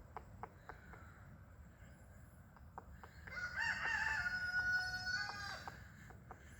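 A rooster crowing once, one long cock-a-doodle-doo that starts about three seconds in, holds steady, and drops off at the end. Faint scattered sharp taps are heard around it.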